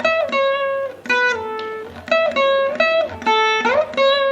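Veena played solo: a quick phrase of about a dozen plucked notes, several of them sliding up into the next note, from a Carnatic film-song melody.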